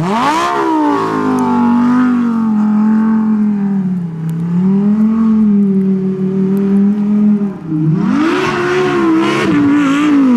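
Lamborghini Huracan Performante's naturally aspirated V10 engine revving hard under throttle, its pitch shooting up at the start and then surging up and down. It drops briefly about three-quarters of the way through, then climbs again.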